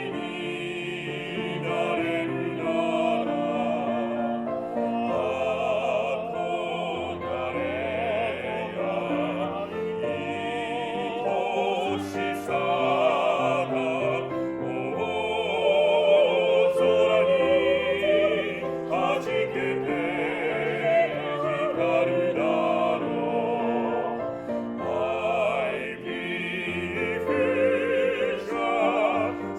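Classically trained voices singing a slow song together in operatic style, with wide vibrato on long held notes, over piano accompaniment.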